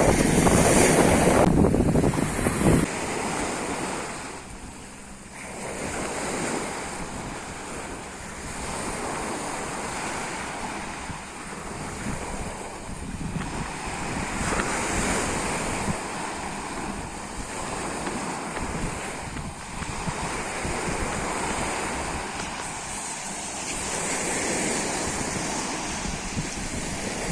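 Sea waves washing onto a beach, a steady surf hiss that swells and ebbs, with wind buffeting the microphone, loudest in the first three seconds.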